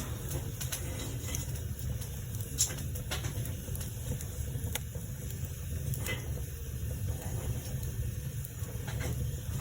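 Fire burning in a fireplace: a steady low rumble with scattered crackles and pops, the sharpest about two and a half seconds in.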